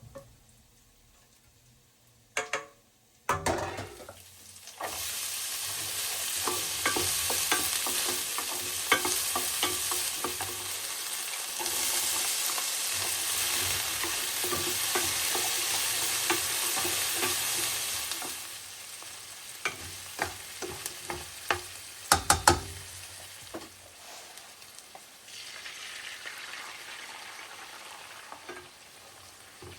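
Food frying in a hot pan with a loud sizzle, stirred with a utensil that clicks and scrapes against the pan. The sizzle starts about five seconds in, after a couple of knocks, and drops a good deal about two thirds of the way through.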